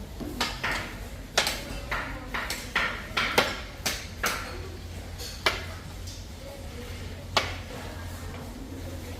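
A series of sharp knocks and clinks of hard objects striking, some with a short ringing. About ten come close together over the first few seconds, then two more come singly.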